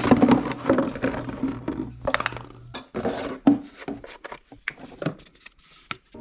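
Hard objects being handled: a run of irregular knocks, clinks and scrapes, with a low steady hum that stops about three seconds in.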